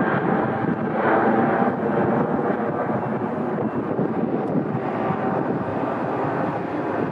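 Jet airliner engine noise, a steady roar that slowly fades as the aircraft moves away.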